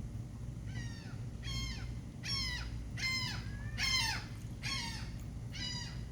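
A gull calling: a run of about seven loud, falling calls in steady succession, under a steady low rumble.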